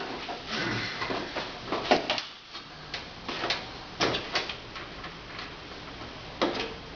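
Irregular clicks, knocks and light rattles of handling, scattered across a few seconds with no engine running.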